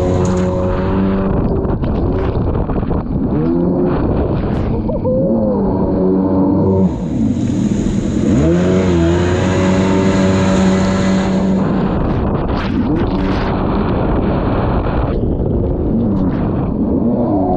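Kawasaki 650SX stand-up jet ski's two-stroke twin engine running under throttle, its revs dropping and climbing back several times. A steady hiss rides over it for a few seconds in the middle.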